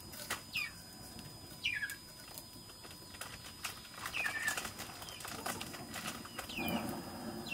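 A small bird chirping: a few short, separate calls that each slide downward in pitch, over scattered light clicks.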